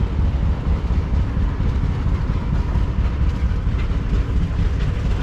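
Old tractor engine running nearby: a steady low rumble made of rapid, uneven pulses.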